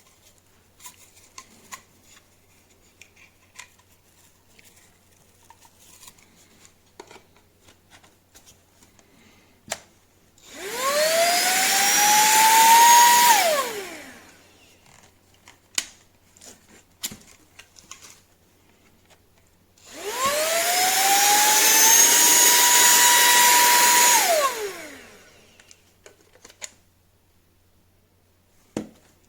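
SERVOMASTER handheld cordless vacuum cleaner switched on twice, about three and four seconds each: the motor's whine rises as it spins up, holds steady over the rush of air, and falls away as it is switched off. Small clicks and handling noises between the runs.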